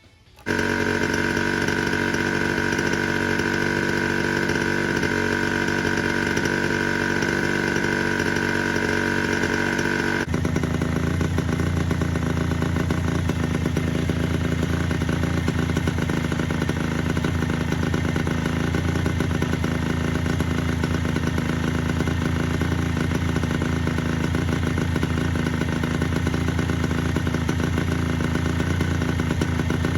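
Honda NSR50's two-stroke single-cylinder engine running steadily on a faulty carburetor, which the owner blames for its unstable idle. The sound comes in suddenly and about ten seconds in shifts abruptly to a lower, heavier note.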